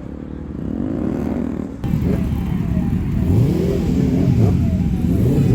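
Motorcycle engines revving repeatedly, several rising and falling runs in pitch that overlap one another. The sound jumps louder about two seconds in.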